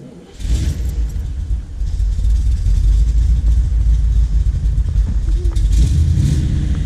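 1979 Corvette C3's L82 350 small-block V8, fitted with side pipes, starting about half a second in and then running at idle, growing louder over the next second or so.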